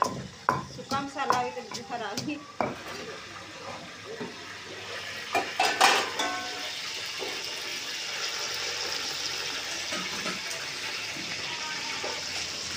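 A stone mortar knocked by a pestle with a voice over it, then a metal spoon clattering against a large aluminium pot about six seconds in. After that, a steady sizzle of onions frying in hot oil as they are stirred.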